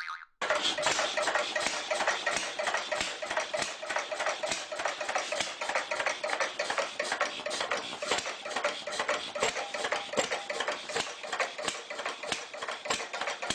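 Small DIY model chaff cutter machine running, its mechanism making a rapid, even rattle of clicks that starts about half a second in.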